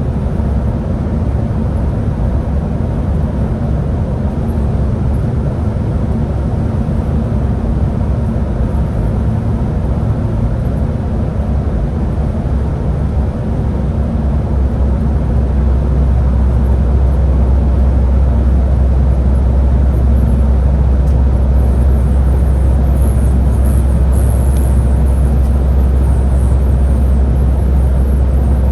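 Scania Higer A30 city bus under way: a steady low engine drone with road noise, growing louder about halfway through.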